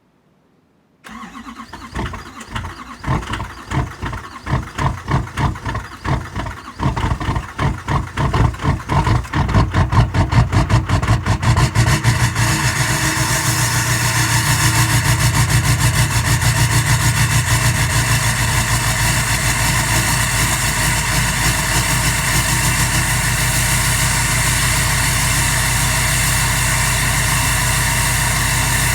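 2013 LML Duramax 6.6-litre V8 turbodiesel cold-started in about 3 degrees: the starter cranks with a pulsing rhythm from about a second in, the engine catches and runs unevenly for a few seconds, then settles into a steady idle.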